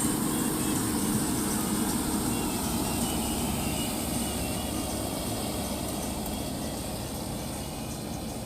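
Harvesting machine's engine running steadily with a low hum and mechanical hiss, slowly getting quieter over the last few seconds.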